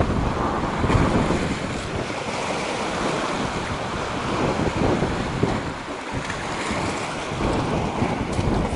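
Strong wind buffeting the microphone in uneven gusts, a heavy low rumble over a steady rush.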